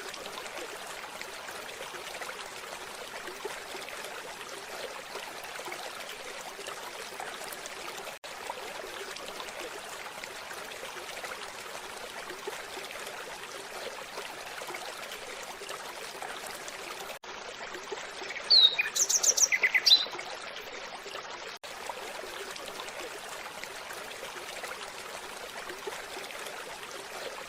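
Steady, even hiss-like outdoor background noise, with a short, louder burst of bird chirps about two-thirds of the way in.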